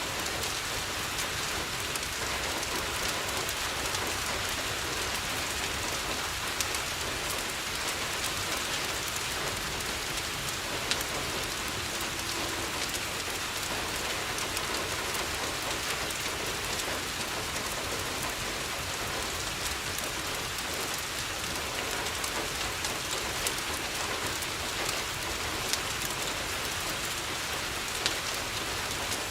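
Steady rain pattering on a window, an even hiss, with a few sharp clicks now and then.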